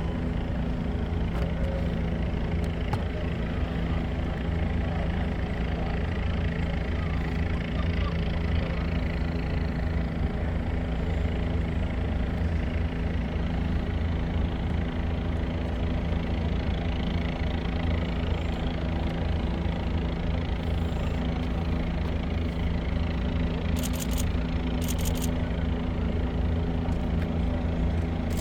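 A motor runs with a steady, unchanging low drone and several constant hum tones. A few brief high hissing ticks come near the end.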